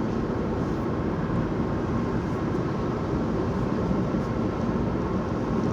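Steady road and engine noise inside a moving car's cabin, with the air-conditioning blowing.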